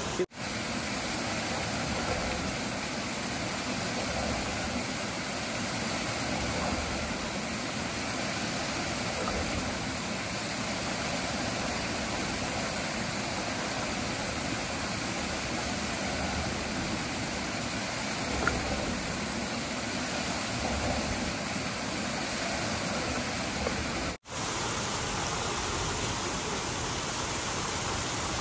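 Steady rush of running water, cut off for an instant twice.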